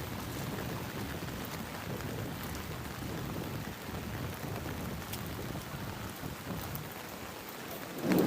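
Steady rain falling, a dense even patter with scattered sharper drop ticks. A sudden louder low rumble starts just before the end.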